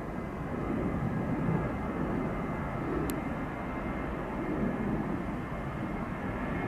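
Boeing 737-800 taking off, its CFM56 jet engines at takeoff power giving a steady low rumble that swells and eases in slow waves. A single brief tick comes about three seconds in.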